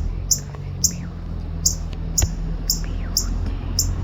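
Northern cardinal giving sharp, high chip notes, repeated about twice a second, with a low rumble underneath.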